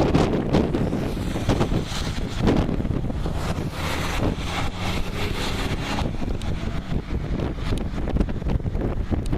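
Strong, gusting storm wind near a violent tornado, buffeting the microphone with a heavy low rush that rises and falls.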